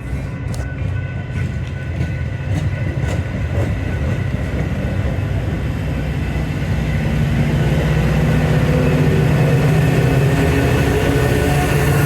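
Train on the line: wheels clicking over the rail joints, then a deep steady engine hum that grows louder as the train draws closer.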